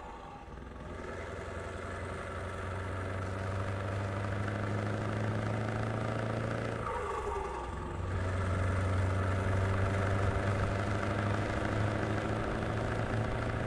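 Scania V8 diesel truck engine running steadily. About seven seconds in the revs briefly drop with a falling pitch, then the engine picks up again, louder.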